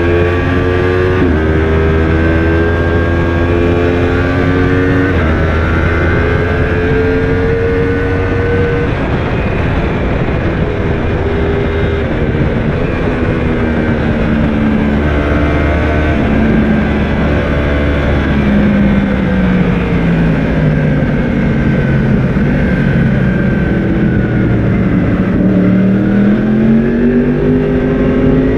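Yamaha YZF-R1 inline-four engine under hard acceleration, its pitch climbing and dropping back several times as it shifts up through the gears. Later the pitch falls steadily as it slows, then rises again near the end as it accelerates once more.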